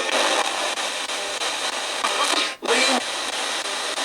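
Ghost-hunting spirit box radio sweeping through stations: a steady hiss of static with brief snatches of broadcast sound. It cuts out for an instant about two and a half seconds in.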